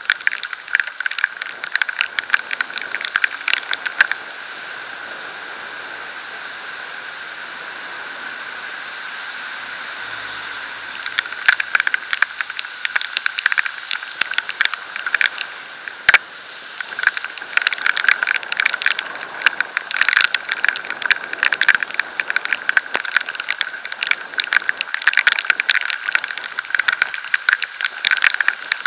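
Rain and road spray pelting the camera housing while riding at speed: a dense, fast, irregular patter of drop hits over a steady rush of wind and tyre hiss. The drops ease off for several seconds about four seconds in, leaving only the hiss, then resume just as heavily.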